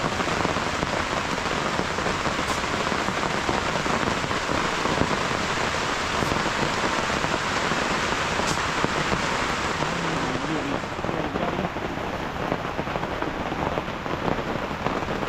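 Rain falling steadily, a dense even hiss of drops. The highest part of the hiss turns a little duller about two-thirds of the way through.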